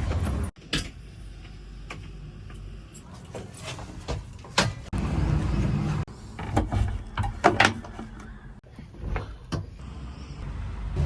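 Diesel engines of heavy machinery running, with scattered clanks and knocks. The sound comes in several abruptly cut segments.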